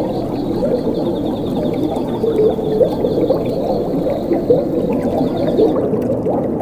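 Flowing water gurgling and bubbling steadily. Behind it a cricket trills in rapid high pulses, and the trill cuts off near the end.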